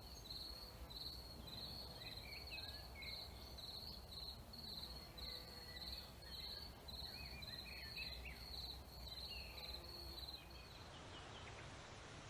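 An insect chirping in an even rhythm, about two high buzzy pulses a second, over faint outdoor noise, with scattered short bird calls; the chirping stops near the end.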